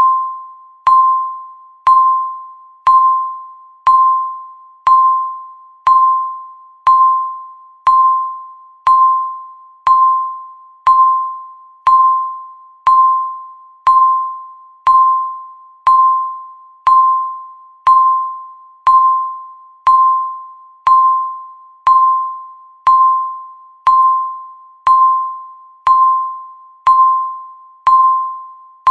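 Countdown timer's tick sound marking each second: a short ringing ping, struck once a second and fading quickly, repeating evenly.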